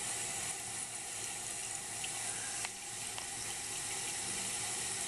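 A toilet tank refilling after a flush: water hisses steadily through the tank's fill valve, with a faint tick about two and a half seconds in. The refill is slow.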